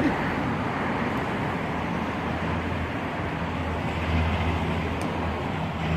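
Steady outdoor background rumble with a low hum, of the kind heard from road traffic.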